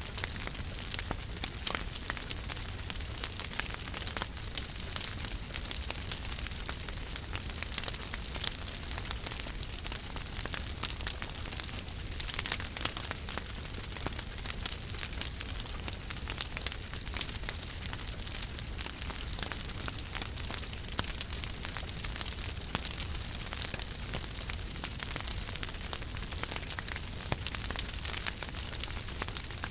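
Wood fire burning in a fireplace: a steady hiss and low rumble with frequent small, irregular crackles and pops.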